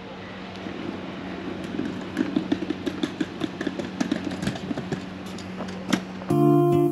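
Car engine running with a steady hum, with scattered light clicks and knocks; acoustic guitar music comes in near the end.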